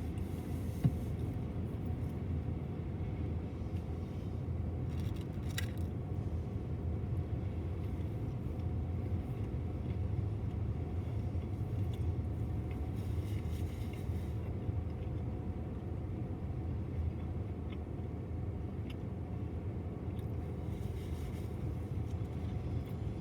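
BNSF double-stack intermodal freight train rolling past: a steady low rumble of wheels on rail, with a sharp click about a second in.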